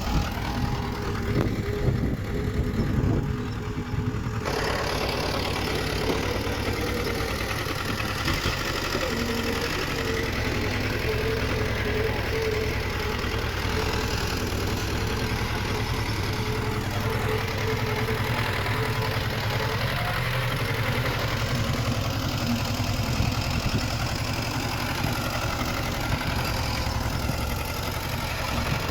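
Diesel engine of heavy earthmoving machinery running steadily, with a low rumble and a steady hum. The sound changes and fills out about four seconds in.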